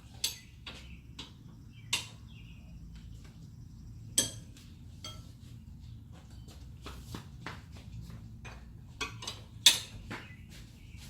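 Metal hand tools and sockets clinking and clicking irregularly, with a few louder sharp clanks, as a brake caliper bracket bolt is worked loose.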